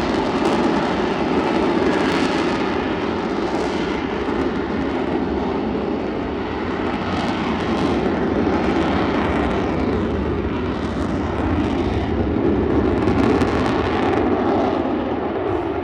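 F-35B's jet engine running at high power close by, a loud, steady rushing noise that swells and eases slightly and begins to fade near the end.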